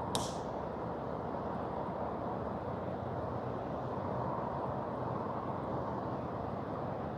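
Steady rushing of a mountain river, with one sharp snap just after the start.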